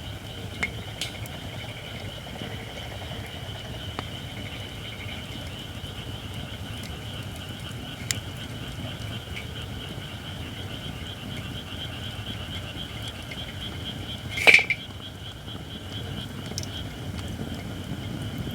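Open wood fire of white oak firewood burning, with occasional sharp crackles and one loud pop about two-thirds of the way through, over a steady high-pitched hiss.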